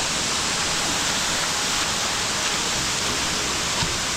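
Powerful waterfall pouring down into a rock gorge, a steady rush of falling water.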